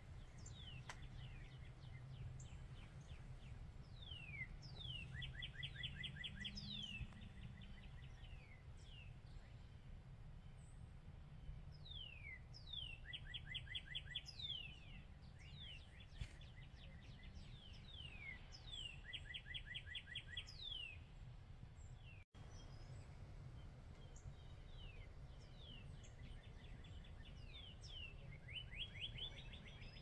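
Bird song: a songbird repeating a phrase of quick falling chirps that ends in a fast trill, about every six seconds, over a faint low steady rumble.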